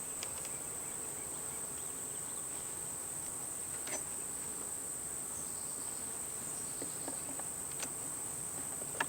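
A steady high-pitched insect chorus, with honeybees buzzing around an opened beehive. A few light clicks are heard, about four seconds in and near the end.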